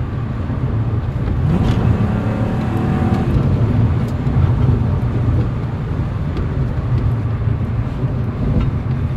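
Vauxhall Vectra GSi's 2.5 V6 engine with a de-catted 2.5-inch straight-through exhaust, heard from inside the cabin while driving: a steady low exhaust drone, with the revs rising briefly about a second and a half in.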